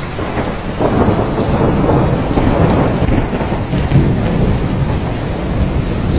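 Thunderstorm: steady heavy rain with a long roll of thunder that swells about a second in and rumbles through the middle before easing.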